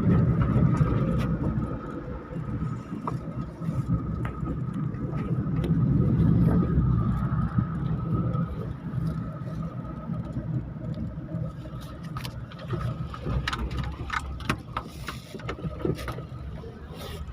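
A car being driven: engine and road rumble rising and falling, with a thin steady whine over it. There are scattered clicks and knocks in the last few seconds.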